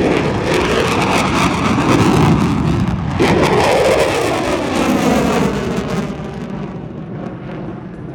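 Small canard aerobatic airplane making a low pass: a loud rush of engine and air noise that sweeps in pitch about three seconds in as it goes by, then fades over the last couple of seconds.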